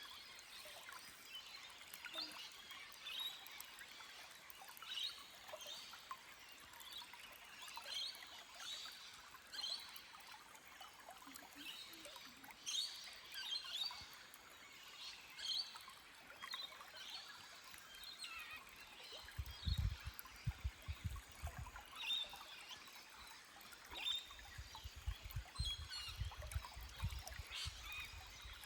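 Forest stream trickling over rocks, with songbirds chirping on and off. About two-thirds in and again near the end come bursts of loud, low rumbling thuds.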